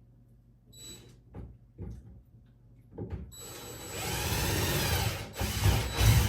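A few light knocks, then a power drill running into the wood of a cabinet for about three seconds, its motor pitch wavering as it bites.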